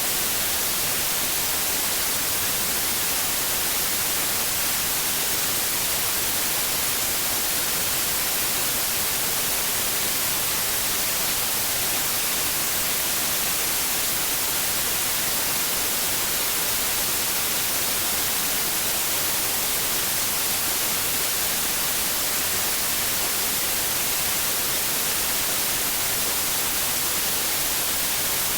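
Steady white noise: an even, unchanging hiss, brightest in the treble, with no other sound in it.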